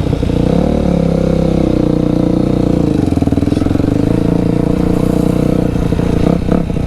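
Very loud dirt bike engine running under the rider at a fairly steady pitch, dipping slightly about three seconds in.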